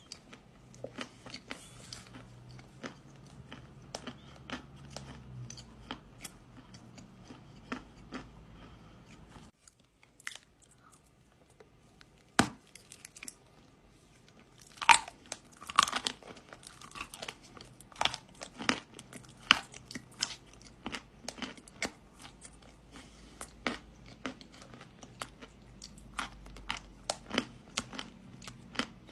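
Close-miked biting and chewing of dry kaolin clay: irregular crisp crunches and crumbling clicks. There is a brief pause about ten seconds in, and several louder bites follow a few seconds later.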